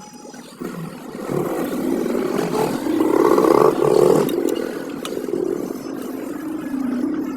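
A motor vehicle's engine running, growing louder to a peak about three to four seconds in, then easing off and carrying on at a lower level.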